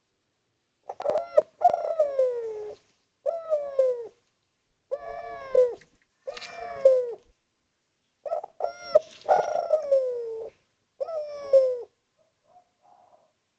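Spotted dove cooing, a string of about seven coos, each sliding down in pitch, with short gaps between them.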